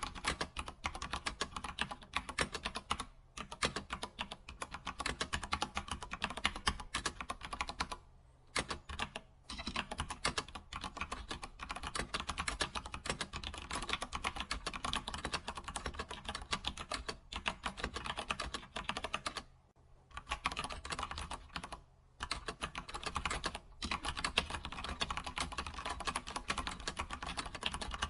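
Computer keyboard typing: a rapid, continuous run of key clicks, with a few short pauses of under a second to about a second and a half between bursts.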